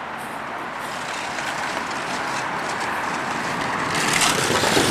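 Model stock cars rolling along a built race track, a steady rumbling clatter of small wheels that grows louder about four seconds in.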